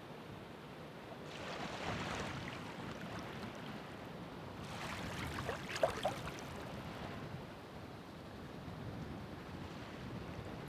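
Ocean surf: waves break and wash up in two swells, about a second and a half in and again around five seconds in. The second swell has short crackling splashes.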